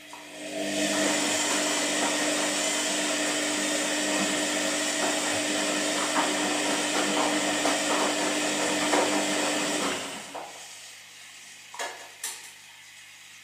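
Washing machine running its motor for about ten seconds, a steady hum under a broad hiss, then stopping. Two short knocks follow near the end.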